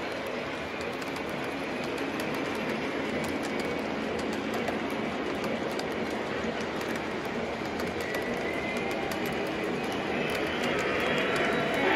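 A train running on the track: a steady rumble with faint clicking from the wheels.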